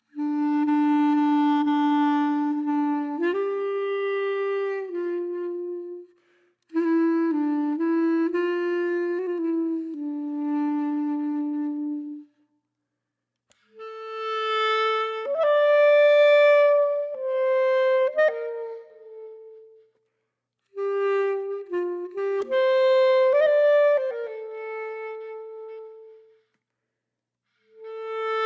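Background music: a solo wind instrument playing a slow melody in phrases of several sustained notes, with short silences between the phrases.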